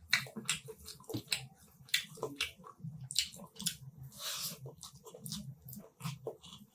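Close-miked chewing and wet lip-smacking of a mouthful of food: an irregular run of sharp smacks and clicks, with a brief hiss about four seconds in.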